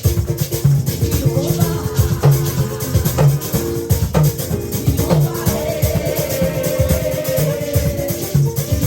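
Live band music, instrumental: drums and bass guitar keep a steady beat under held chords.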